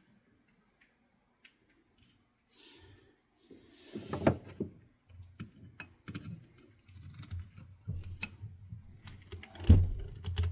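Clicks, light knocks and short rattles of a ceiling fan's metal motor parts being handled and worked at. They start a couple of seconds in, with one louder knock near the end.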